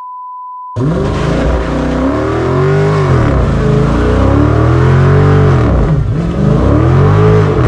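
A steady test-tone beep for about the first second, then the Dodge Charger Super Bee's 6.4-litre HEMI V8 revving up and down over and over as a rear tyre spins in a smoky burnout.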